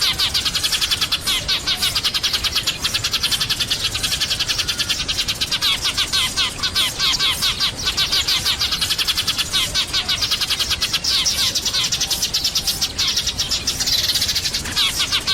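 A flock of sparrows chirping in dense, rapid, overlapping calls that run on without a break.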